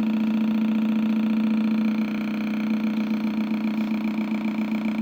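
Homemade two-oscillator electronic motorcycle-sound generator droning steadily, a buzzy pitched imitation of an engine running slow with a fast flutter in it.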